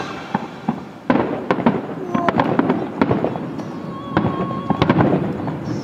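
Aerial fireworks shells bursting and crackling: a sharp bang about a second in, then a rapid run of cracks and pops. Wind noise rumbles on the microphone underneath.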